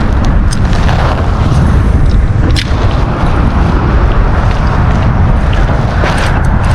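Wind buffeting the microphone: a loud, steady low rumble, with a couple of short clicks.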